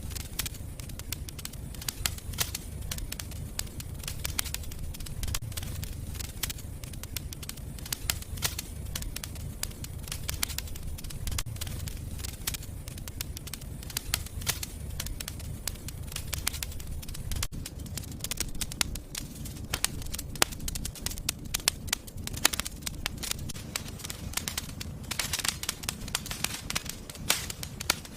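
Wood fire in a fireplace crackling, with many sharp snaps over a steady low rumble of the flames; the crackling grows denser near the end.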